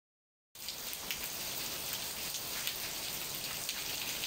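Steady rain falling on surfaces, a dense hiss of many small drop hits, cutting in suddenly about half a second in.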